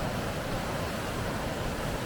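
Steady rushing of river rapids, an even noise with no distinct events.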